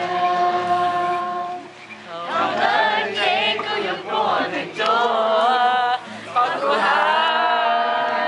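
A group of voices singing or chanting together, holding long notes that slide in pitch, with short breaks between phrases.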